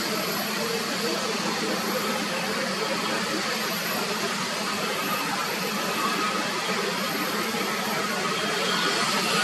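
Airliner jet engines heard as a steady rushing noise, growing slightly louder near the end.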